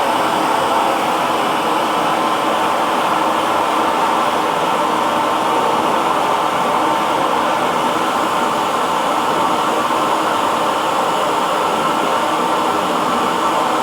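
Hair dryer running steadily: a continuous, even rush of blown air with a faint steady motor whine inside it, unchanging in pitch and loudness.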